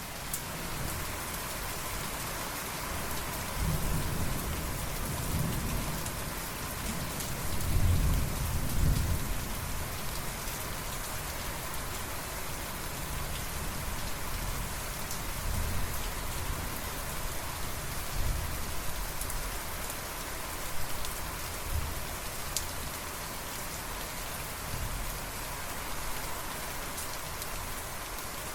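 Steady heavy rain falling, with a low roll of thunder that swells about four seconds in, peaks around eight to nine seconds and fades. Fainter rumbles come back a few times later.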